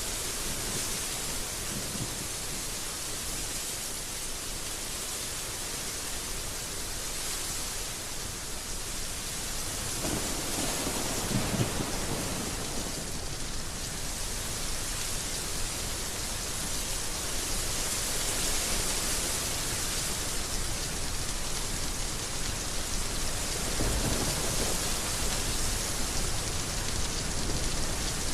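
Heavy rain falling in a steady hiss, with low rumbles of thunder about ten seconds in and again near the end.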